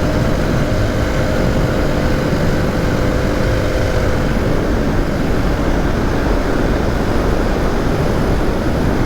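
KTM 500 EXC single-cylinder four-stroke dirt bike being ridden hard, its engine running under a loud, steady rushing noise. A steady engine note fades out about four seconds in.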